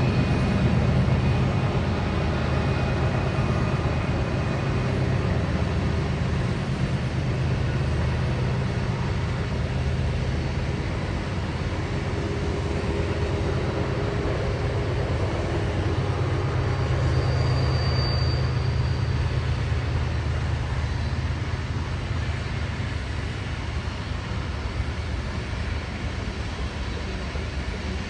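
Freight train running with its diesel locomotives, a steady low engine rumble mixed with rolling noise that slowly eases toward the end.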